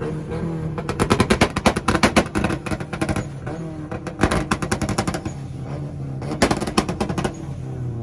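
Nissan truck's engine held on a two-step launch limiter, its exhaust firing rapid strings of pops and bangs like gunfire in three bursts, with the engine running steadily in between.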